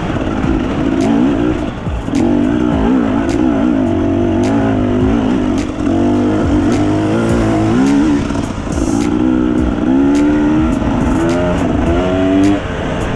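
Enduro dirt bike engine running under changing throttle, its pitch rising and falling continually as it revs up and eases off. Frequent sharp clicks are heard throughout.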